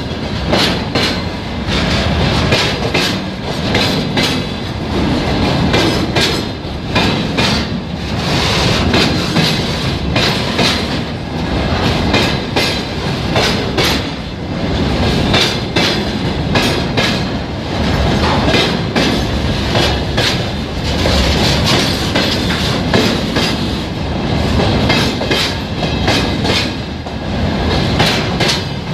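Freight train passing close by, its wagon wheels clacking over the rail joints in a continuous run of knocks over a steady rumble of the rolling stock.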